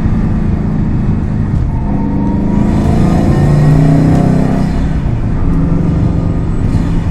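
Subaru WRX STI's turbocharged flat-four engine and exhaust under way, the engine note climbing as the car accelerates about two to four seconds in, then holding steady.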